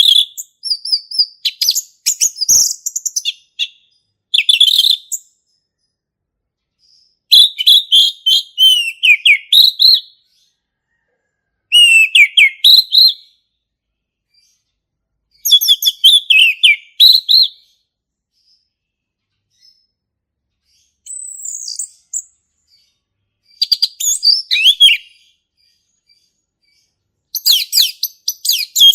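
Male orange-headed thrush singing its full, loud song: phrases of quick, varied whistles and chatter lasting two to three seconds, repeated after short pauses.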